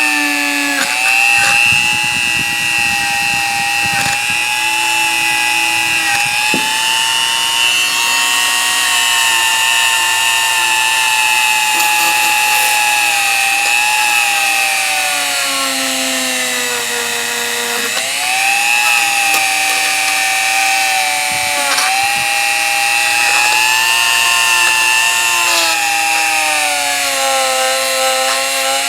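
Dremel rotary tool running at high speed on the pliers' teeth, its whine sagging in pitch and recovering each time it is pressed into the metal, with rough grinding near the start.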